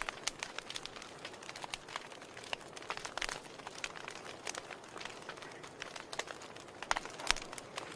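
Wood fire crackling in a fireplace: a constant scatter of small irregular pops and snaps over a soft hiss, with a couple of louder pops about seven seconds in.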